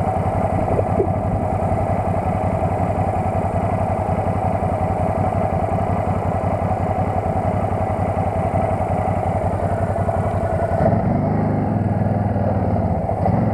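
Quad bike (ATV) engine running steadily, its sound changing about eleven seconds in as the higher noise drops away and a lower pulsing note takes over.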